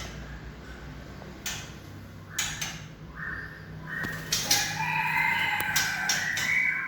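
A rooster crowing: broken calls that build into one long held crow in the second half, with a few sharp clicks alongside.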